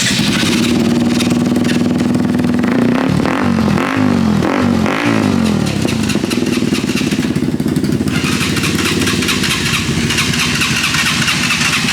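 Small single-cylinder mini-bike engine running, revved up and down several times in quick succession about three to five seconds in, then running steadily.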